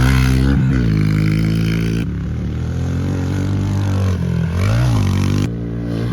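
Mini bike engine running with the throttle varying, blipping up in pitch and back down about five seconds in.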